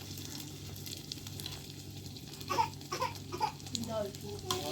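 Steady sizzle of food frying. About halfway in, several short, high, wavering cries join it.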